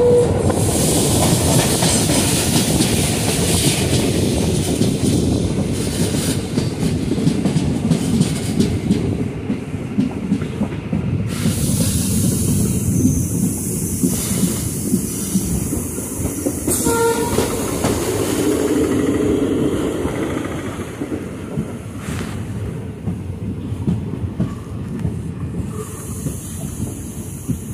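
Kollam Express passenger train running, heard from an open coach door: a steady rumble of wheels clattering over the rails, with a rush of wind. A brief horn toot sounds at the very start and again about seventeen seconds in.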